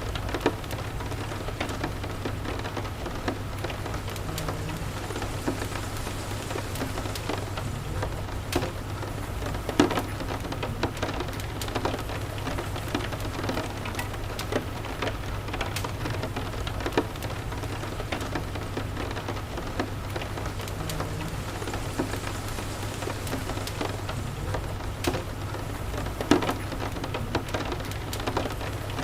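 Steady rain with a low rumble underneath, and frequent sharp pops and crackles of a wood fire burning in a fireplace, a few of them louder.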